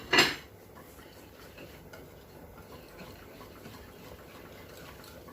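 A utensil knocks sharply against the mixing bowl once at the start, then faint light ticks as the oil is stirred into the batter.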